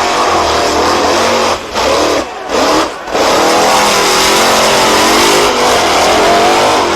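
BIGFOOT monster truck's engine revving hard, its pitch rising and falling as the throttle works, dropping off briefly three times about one and a half to three seconds in.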